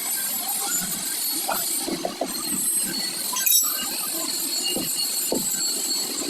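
Workshop handling noise: scattered light clinks and knocks of tools and parts, with one sharper knock about halfway through, over a steady hiss.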